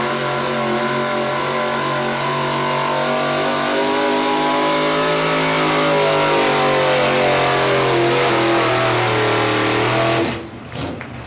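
Pro-street pulling truck's engine held at full throttle, dragging the sled down the track, its pitch wavering slightly as it loads up. About ten seconds in the throttle is let off and the engine sound drops away suddenly, ending the pull.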